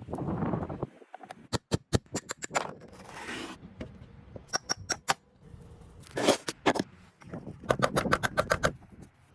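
Hand work on metal parts with tools: irregular sharp clicks and taps, a short scrape about three seconds in, and denser clattering stretches in the second half.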